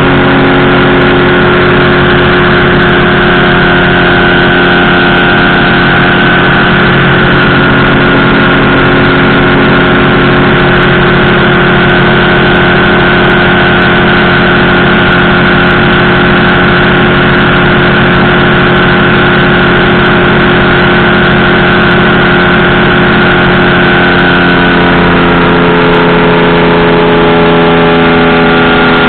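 Powered parachute's engine and propeller running steadily and loudly, the note changing slightly about 25 seconds in.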